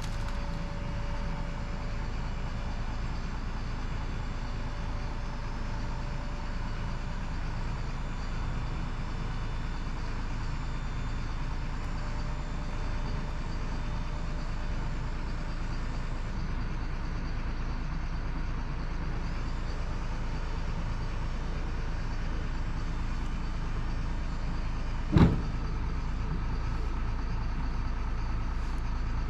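Heavy diesel machinery engine running steadily, with one sharp bang about 25 seconds in.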